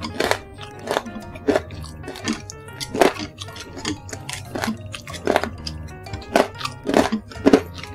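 Close-up crunchy chewing of crispy basreng (fried meatball chips) and fried noodle bits, in irregular crunches about twice a second.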